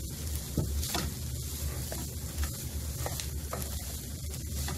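Cauliflower pepper fry sizzling in a nonstick pan while a wooden spatula stirs it, with a steady hiss and several short scrapes and knocks of the spatula against the pan.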